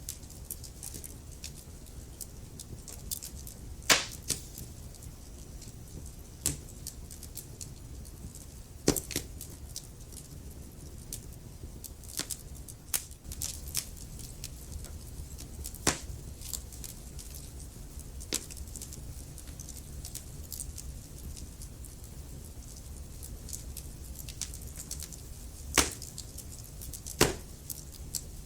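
Wood fire crackling in a fireplace: irregular sharp pops and snaps over a low steady rumble, with a handful of much louder pops scattered through.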